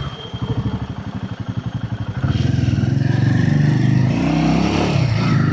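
Royal Enfield Himalayan 450's single-cylinder engine ticking over with about ten even pulses a second, then picking up and running louder and steadier from about two seconds in as the motorcycle pulls away, with a change in engine pitch near the end.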